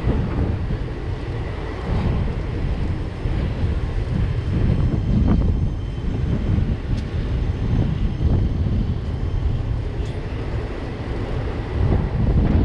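Passenger train in motion, heard from its own coach: a steady rumble of wheels on rail mixed with wind buffeting the microphone.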